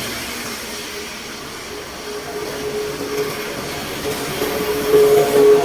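Stormwater rushing into a cleared culvert drain: a steady rush with a humming tone that swells and grows louder about five seconds in.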